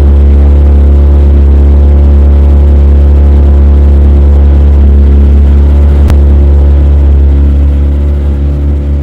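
Motorboat engine running at a steady speed, a loud low drone with a brief click about six seconds in; it begins to fade near the end.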